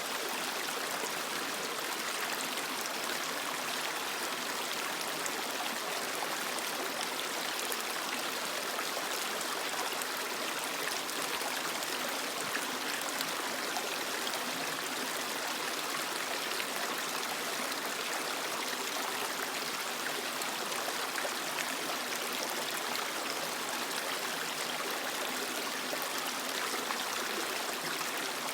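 Creek water flowing and splashing over rocks: a steady, even rushing with fine trickling detail.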